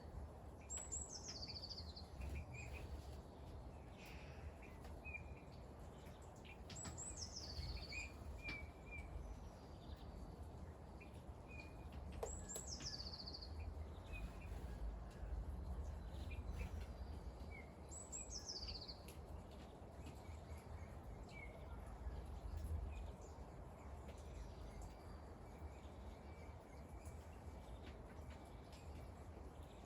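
A bird repeating a high, downward-sliding call four times, about every six seconds, with a few short faint chirps between, over a steady low rumble of outdoor background noise.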